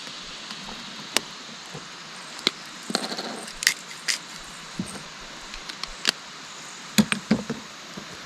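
A metal utensil clinking and scraping against a camp frying pan at irregular intervals, with a few quick clinks together about three seconds in and again near the end, over a steady faint hiss.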